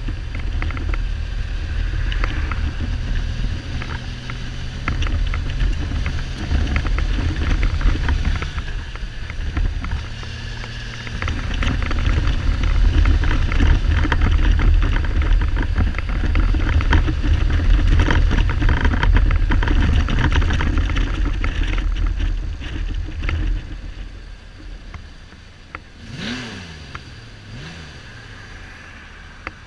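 Kawasaki Z1300 inline-six engine running under way, with heavy wind noise on the microphone; the bike is not running on all cylinders, a misfire the owner puts down to the carbs fouling the plugs. Toward the end the sound drops as the bike eases off, with two short falling pitch sweeps.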